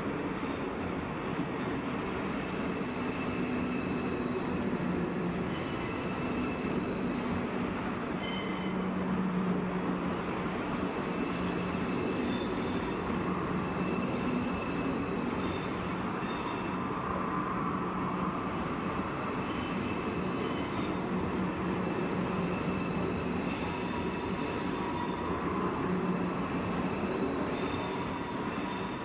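Deutsche Bahn ICE high-speed electric train rolling slowly past along the platform. It makes a steady rumble with a high steady tone, and short high-pitched wheel squeals come every few seconds.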